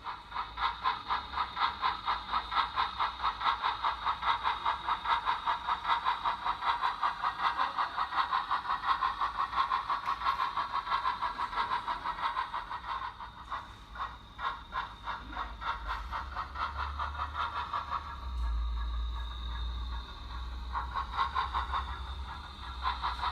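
Digital steam sound from a model locomotive's Zimo MX645R sound decoder and small DS100 speaker, playing an LNER two-cylinder steam exhaust: steady rhythmic chuffing at about three to four beats a second over a low motor hum. The chuffs die down about three quarters of the way through and pick up again near the end.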